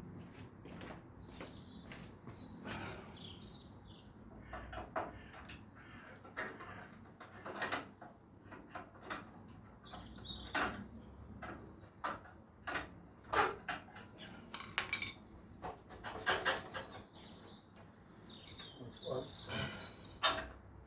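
Scattered metallic clinks and knocks as the Harley-Davidson Sportster S's stock exhaust is worked loose by hand, with short high squeaks between them.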